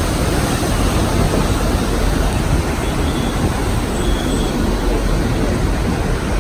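Passenger train running along the track: a steady, loud rumble of wheels on rails heard from aboard.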